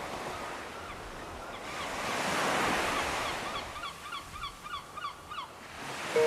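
Waves washing on a shore, swelling and easing, with a bird calling in a quick run of short repeated notes from about one and a half seconds in to near the end.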